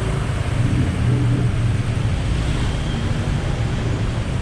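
Steady city street traffic: engines running low and a wash of tyre noise on a wet road, with some wind on the microphone.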